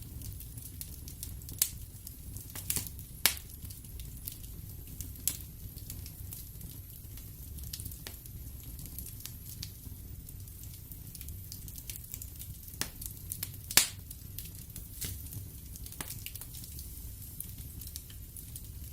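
Wood fire in a fireplace crackling, with irregular sharp pops over a steady low rumble of the flames. The loudest pops come about one and a half seconds in, a little after three seconds, and near fourteen seconds.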